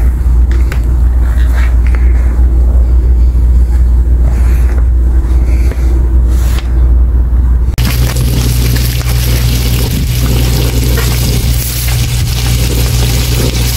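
A steady low rumble, then, after an abrupt change about eight seconds in, sliced pork and garlic scapes sizzling in a frying pan over a steady low hum.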